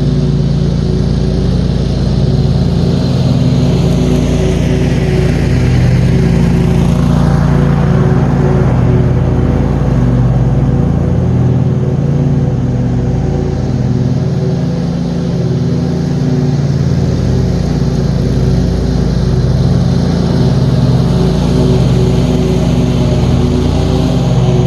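John Deere QuikTrak 652R stand-on mower running steadily while mowing, its engine note held constant. A swell of higher-pitched noise comes and goes a few seconds in.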